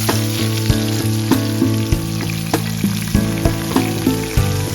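Onions frying in hot oil in a pan, a steady sizzle. Background music with a steady beat plays over it.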